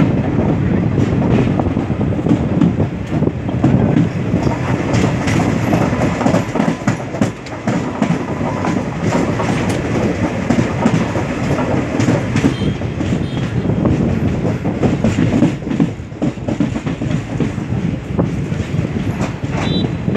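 Passenger train running at low speed, heard from an open window of the coach: a steady rumble with the wheels clattering over rail joints and points, and a few faint wheel squeals.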